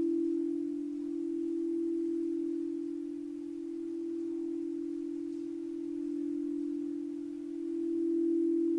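Singing bowl sounding one steady ringing tone that slowly swells and eases, with no fresh strikes.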